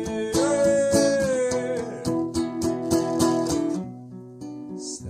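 Song with strummed acoustic guitar: a singer holds one long, slightly falling note through the first couple of seconds, then the guitar strumming carries on alone and drops quieter near the end.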